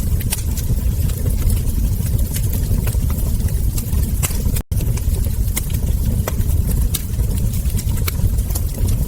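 Log fire crackling and popping, with many sharp snaps over a steady low rumble of the flames. The sound drops out for an instant about halfway through.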